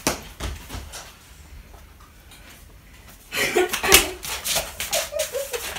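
A few sharp knocks and footsteps on a tile floor, a quieter stretch, then indistinct voices talking from a little past halfway, with more knocks mixed in.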